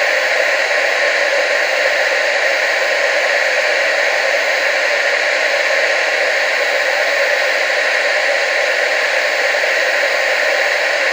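Television static: an unbroken hiss, strongest in the mid and upper range with almost no low end.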